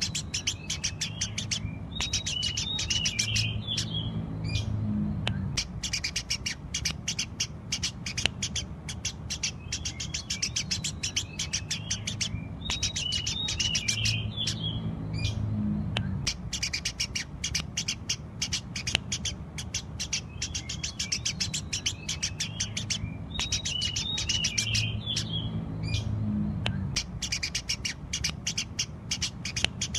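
Eurasian tree sparrows chirping rapidly and continuously, a dense stream of short, high chirps with a busier flurry about every ten seconds, in a pattern that repeats like a loop.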